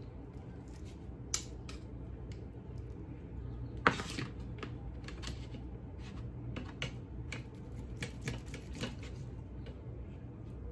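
Scattered clicks and taps of kitchen utensils against cookware, with a sharp knock about a second in and another near four seconds, then a run of lighter taps, over a steady low hum.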